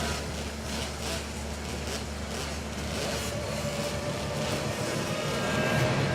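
Small racing motorcycle engines running on the starting grid, with a rev that rises near the end.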